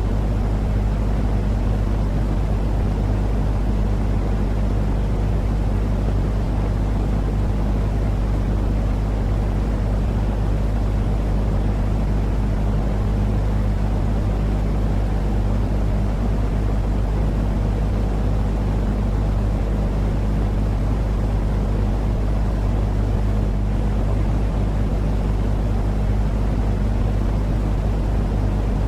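Steady, unchanging low rumbling noise with a constant deep hum under it, a continuous sleep-aid noise track for calming a baby.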